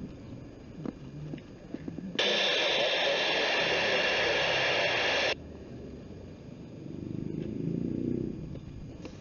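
Handheld radio receiver breaking squelch: a burst of even static hiss lasting about three seconds, switching on and off abruptly.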